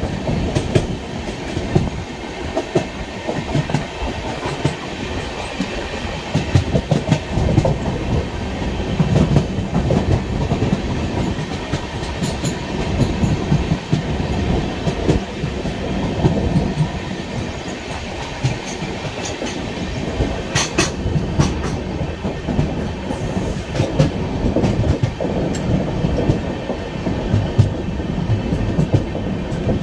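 Passenger express train running at speed: the coaches' wheels rumbling steadily on the rails, with irregular clickety-clack knocks over the track and a few sharper clacks about twenty seconds in.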